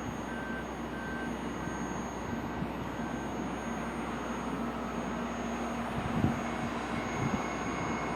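Subway train equipment humming at a station, with a short electronic beep repeating about twice a second through the first few seconds before fading out. A single thump comes a little after six seconds in.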